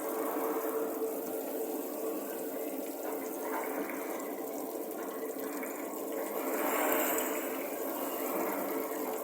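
Water running from a waterfall kitchen sink faucet into the basin, a steady splashing flow that swells a little twice, with a faint steady hum underneath.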